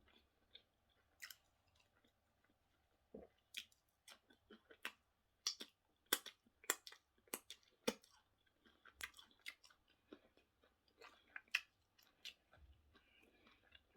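Close-miked chewing of soft food: irregular wet mouth clicks and smacks, busiest in the middle of the stretch and again near the end.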